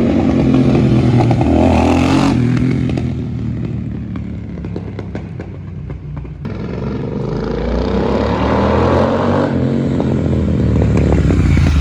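Royal Enfield Continental GT 650's parallel-twin engine running loud through a new aftermarket exhaust, its pitch rising and falling with the revs. It eases off in the middle, then climbs in a rising rev.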